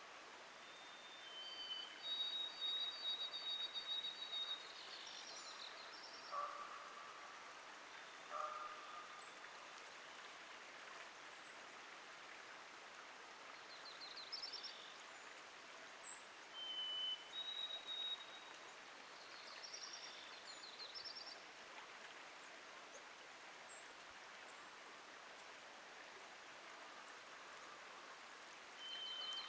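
A songbird singing clear, long, high whistled notes that end in quick fluttering phrases, three times. Two shorter, lower calls come early on, and a faint steady rush of flowing creek water runs underneath.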